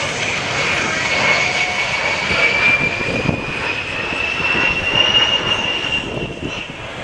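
A-10 Thunderbolt II's twin General Electric TF34 turbofans whining and rushing in flight. The high whine climbs slowly in pitch, then drops a little and fades near the end as the jet passes.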